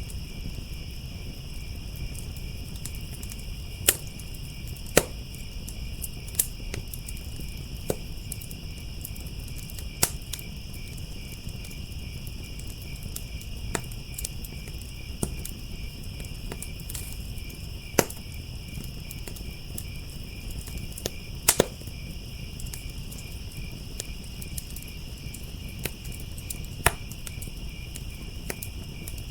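Wood fire crackling with sharp irregular pops, over a steady chorus of crickets chirping continuously.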